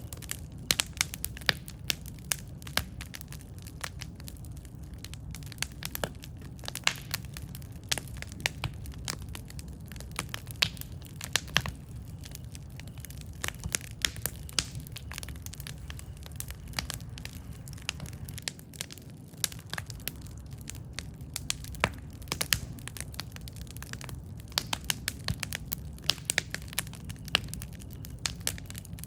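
Wood campfire burning, with irregular sharp pops and crackles over a low steady rumble of flame.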